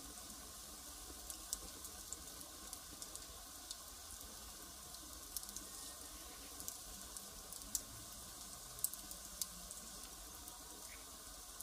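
Wood fire crackling: irregular sharp pops and snaps of burning firewood over a steady faint hiss, with a few louder pops in the second half.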